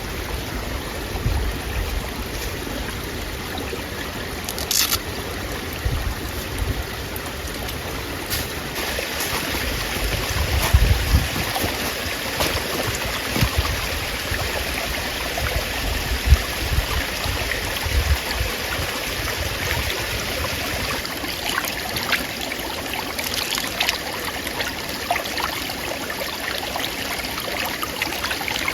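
Steady rushing of running water, like a stream, with irregular low rumbles and a few faint clicks.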